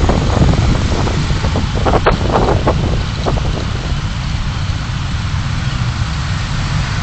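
Car driving on city roads: a steady low rumble of road and engine noise with wind on the microphone, and a few short clicks or knocks about two to three seconds in.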